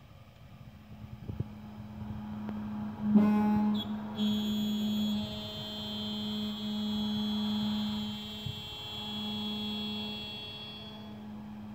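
CNC lock-milling machine for aluminium profiles running with a steady low hum. About three seconds in, a high whine starts suddenly and holds until it fades near the end.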